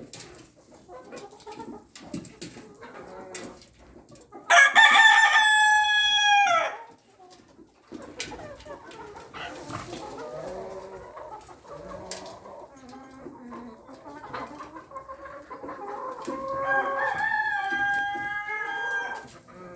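Chickens clucking, with a rooster crowing loudly about four and a half seconds in and crowing again, less loudly, near the end.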